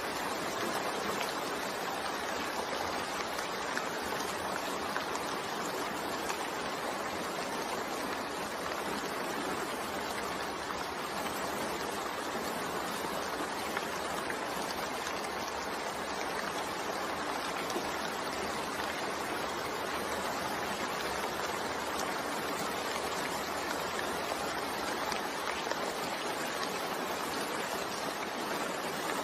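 Steady rain falling, an even hiss of water with faint scattered drop ticks and no change in level.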